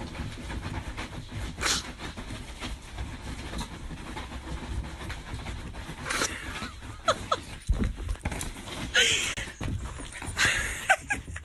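An animal breathing in breathy puffs, with a few short high squeaks near the middle and near the end, over a steady low rumble.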